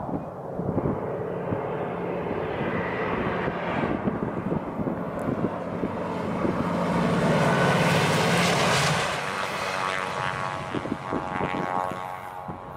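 A New Mexico Rail Runner Express passenger train passing at speed: diesel locomotive engine drone and rushing wheel and rail noise build to a peak about eight seconds in, then fade as it goes by.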